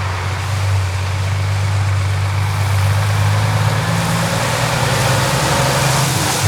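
Heavy truck's diesel engine running steadily at low revs, a low even hum.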